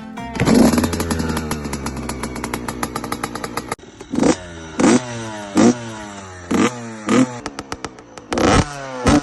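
85cc two-stroke dirt bike engine with a new FMF shorty exhaust pipe, revved hard and winding down over the first few seconds, then given a quick series of throttle blips, each one dropping back toward idle.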